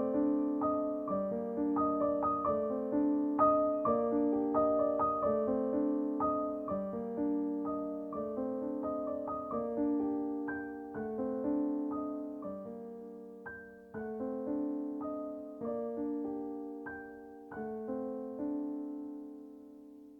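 Background music: a gentle piano piece of struck notes that ring and die away, several sounding together. It grows gradually quieter and sparser, fading out at the end.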